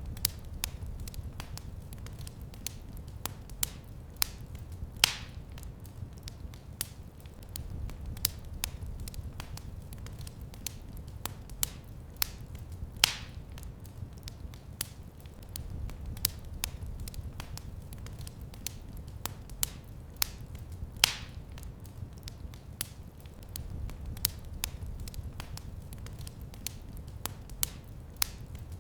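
Wood fire crackling in a fireplace: a steady run of small sharp crackles, with a louder pop about every eight seconds, over a low rumble.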